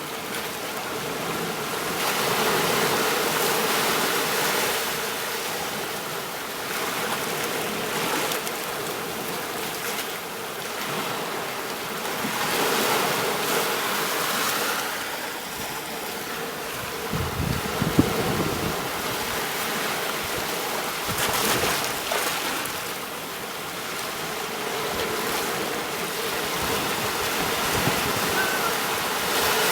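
Ocean surf washing onto a beach: a steady rushing that swells and ebbs every few seconds as waves come in and draw back, with one sharper splash about eighteen seconds in.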